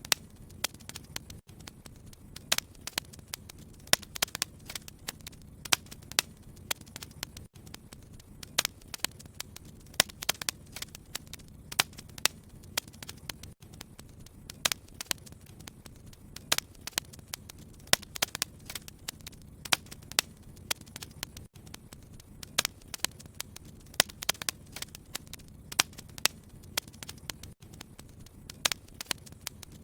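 Fire burning in a fireplace, crackling with irregular sharp pops several times a second over a low steady rumble.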